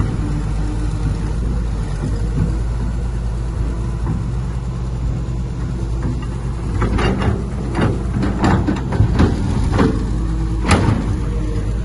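Heavy diesel earthmoving machinery running steadily, with a series of sharp clanks and knocks starting about seven seconds in, the loudest one near the end.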